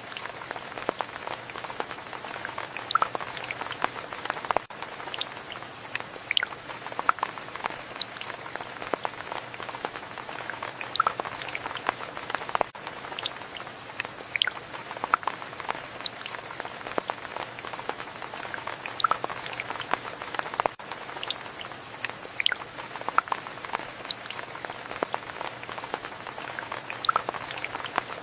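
Steady rainfall, with individual drops hitting a surface close by as irregular sharp ticks over a soft hiss. The same stretch of sound repeats about every eight seconds.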